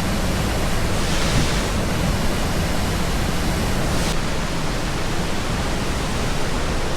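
Lundbreck Falls on the Crowsnest River rushing: a loud, steady wash of falling water.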